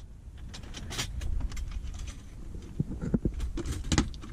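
Scattered light clicks and knocks over a steady low rumble, with a few sharper knocks near the end.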